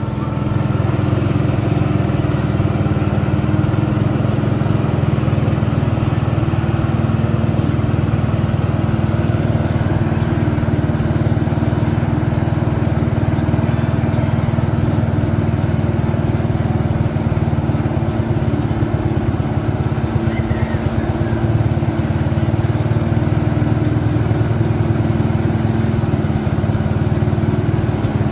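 Mitsubishi 190 PS truck's diesel engine running at a steady speed, a loud even low drone with no revving.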